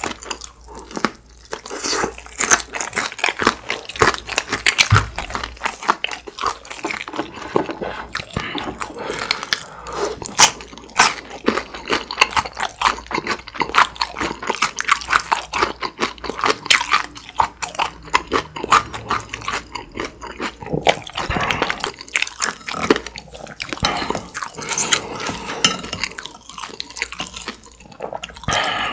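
Close-miked chewing of sauce-glazed fried chicken, with rapid crunches and wet mouth clicks.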